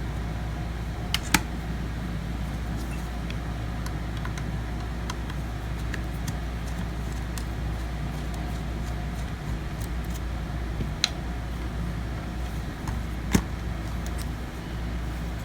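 Small sharp clicks and taps of a screwdriver and tiny screws on a metal hard-drive caddy while its four screws are taken out, a few louder ticks scattered among faint ones, over a steady low hum.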